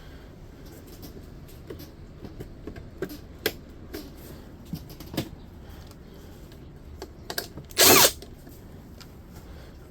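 Scattered light clicks and knocks of dehumidifier parts being handled. About eight seconds in, a power drill/driver runs in one loud burst lasting less than half a second.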